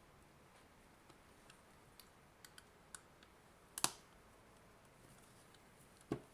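Faint clicks and taps of a hard plastic adapter case being handled and pried at, with one sharp loud click a little before the middle and a duller knock near the end.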